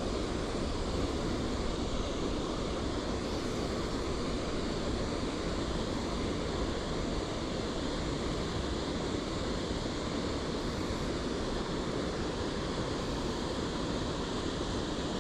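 Steady rushing of flowing river water, an even noise that holds without change.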